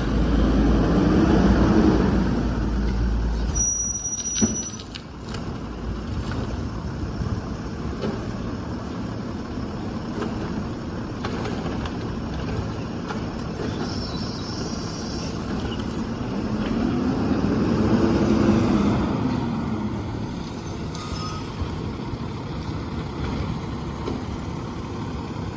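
Peterbilt garbage truck's diesel engine with a Heil Rapid Rail side-loader body, running steadily and revving up and down twice: once at the start and again about two-thirds of the way through. There is a short air-brake hiss about four seconds in.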